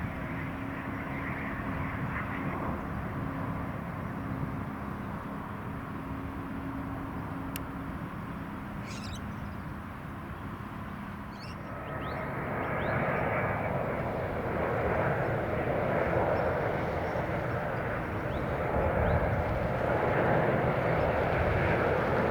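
Jet airliner engines: a distant steady rumble that builds about twelve seconds in into a loud, broad roar as the aircraft draws near, still growing at the end.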